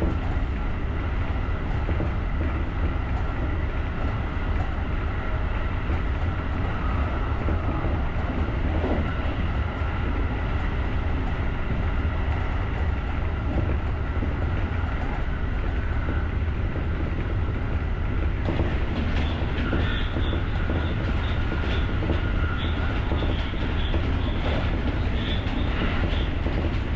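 JR rapid electric train running along the line: a steady rumble of wheels on rail with a faint steady whine. About two-thirds of the way through the sound turns harsher, with added hiss and scattered clicks.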